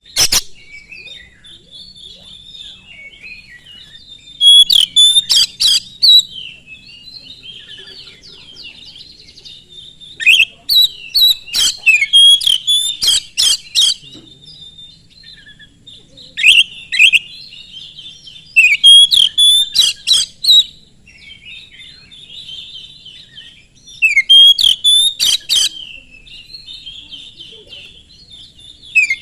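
Oriental magpie-robin (kacer) in full song: a continuous rambling warble, broken every few seconds by loud bouts of sharp, rapidly repeated notes, five bouts in all.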